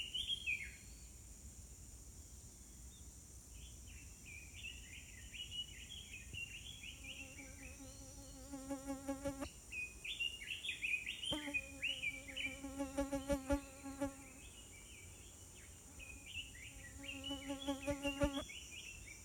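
Wild birds singing in repeated bursts of quick chirps, with a flying insect buzzing close by in three spells of a few seconds, its pitch wavering as it moves. A steady high hiss runs underneath.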